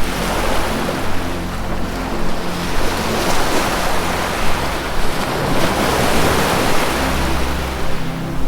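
Ocean waves washing in and out, the surf swelling loudest about halfway through, over soft sustained low notes of ambient music.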